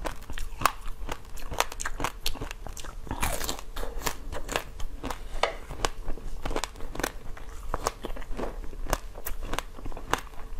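Close-up eating sounds: crunchy biting and chewing of pink ring-shaped treats, a steady run of sharp crackly clicks with a louder crunch a little over three seconds in.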